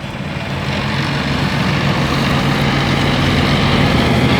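A motor engine running steadily, its steady hum slowly getting louder.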